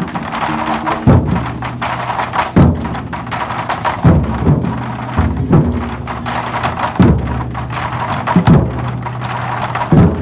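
Lion dance drumming: heavy booming beats about every second and a half, with rapid lighter strikes filling the gaps between them.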